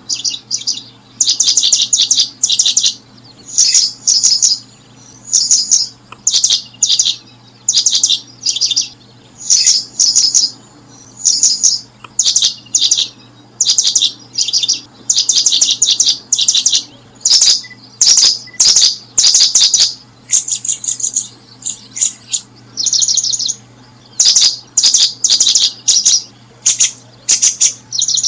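Small bird calling in short, rapid chittering trills, high-pitched, repeated almost without pause every half second or so.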